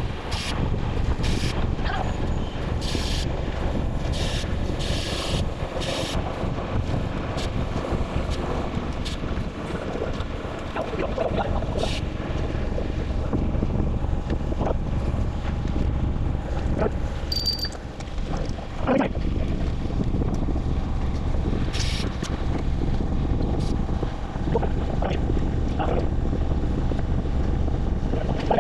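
Wind buffeting the microphone during a ride, a steady low rumble, with a few sharp clicks in the first several seconds.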